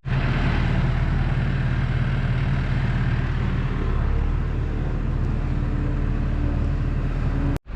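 A motor vehicle's engine running steadily, with a low, even hum. It cuts off suddenly near the end.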